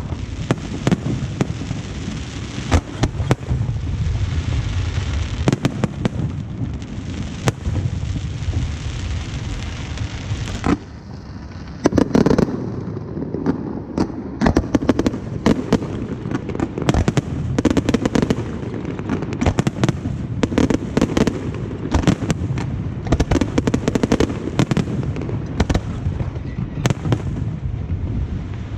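Aerial fireworks show: a dense, continuous barrage of shells bursting with sharp cracks and booms over a rolling rumble. About eleven seconds in it eases briefly, then a heavy volley of bursts resumes.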